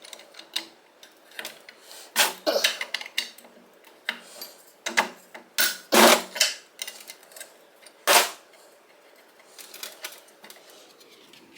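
Metal hand tools and parts clicking and clanking against a Kawasaki KZ1000 engine's cases during teardown: an irregular run of sharp knocks with brief ringing, the loudest about six and eight seconds in.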